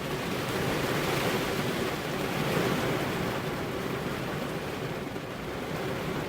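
Steady rainfall: an even, unbroken hiss with gentle swells in loudness and no thunder.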